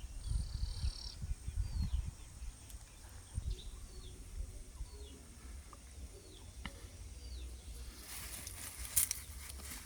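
Faint short, high, downward chirps from small birds, about one a second, over a low wind rumble on the microphone; a rustling hiss comes in near the end.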